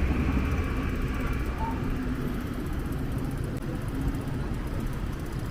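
Street traffic: a passing car fades away over the first second or so, leaving a steady low rumble of road traffic.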